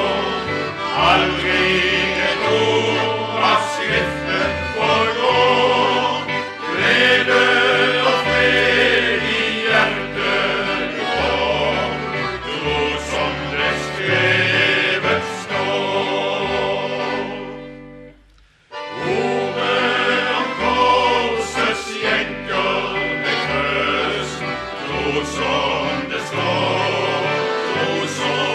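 A vocal group singing a Christian song in harmony over instrumental accompaniment with a steady bass line. The music breaks off briefly about two-thirds of the way through, then picks up again.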